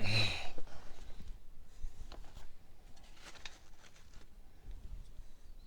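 Faint handling sounds of small parts: scattered light clicks and rustles as replacement rubber seals are sorted and tried against the oil filter cooling adapter, after a short breath at the start.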